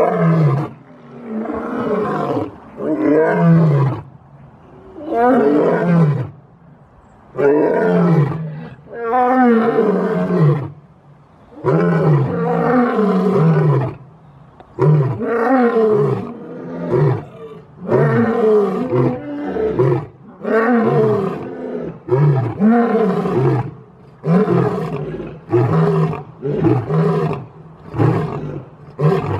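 Lion roaring: a long series of loud calls, each about a second long and falling in pitch, repeated every one to two seconds and coming shorter and quicker toward the end.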